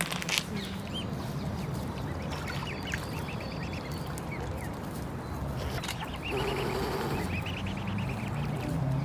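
Birds calling: several runs of quick, repeated short chirps, busier from about six seconds in, over a steady low rumble.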